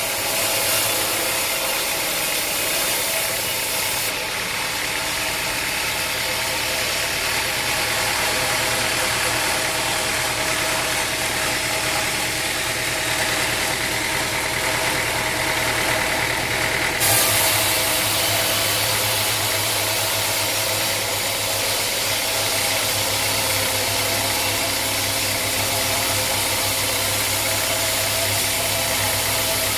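Sawmill machinery running with a steady mechanical hum. Its high hiss cuts out abruptly about four seconds in and comes back suddenly about seventeen seconds in.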